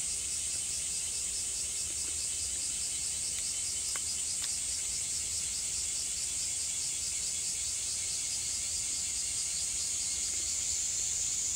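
Steady, high-pitched chorus of insects with an even pulsing, over a faint low rumble; two faint ticks about four seconds in.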